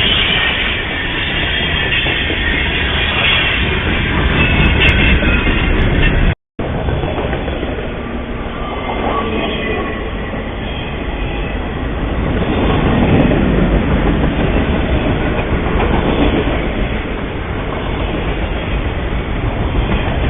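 A train rolling past close by, a steady rumble and clatter of wheels on rail, picked up by a trail camera's small microphone. The sound drops out completely for a moment about six seconds in, then the train noise resumes.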